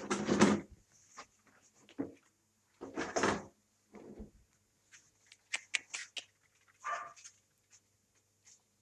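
Month-old puppies at their meat: short, irregular bursts of chewing, scuffling and knocking, with a few sharp clicks and a brief high puppy whine about seven seconds in.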